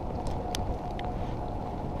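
Steady low rumbling outdoor noise in the rain, with a faint constant hum and a few light ticks.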